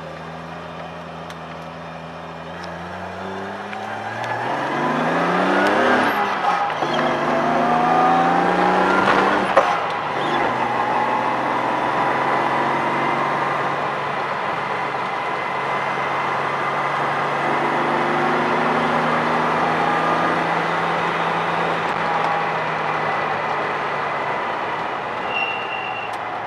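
A 1978 Datsun 280Z's straight-six engine heard from inside the cabin, accelerating hard with a rising pitch and upshifting at about 6 s and again at about 10 s. After that it runs at a steady speed up the grade.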